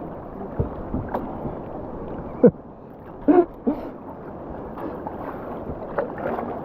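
River water rushing steadily around a kayak, with a few sharp knocks, the loudest about two and a half seconds in, and a short vocal sound just after it.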